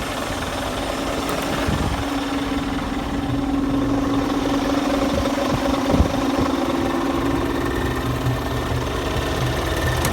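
Scania tractor unit's diesel engine idling steadily, with one sharp knock about halfway through.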